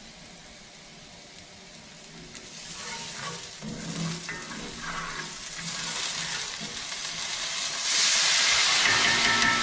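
Food sizzling in a hot cast iron skillet. The sizzle is faint at first, grows louder, and jumps to a loud burst about eight seconds in.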